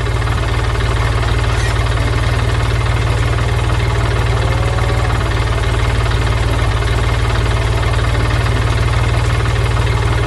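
Forklift engine running steadily with a low, rapid, even chug.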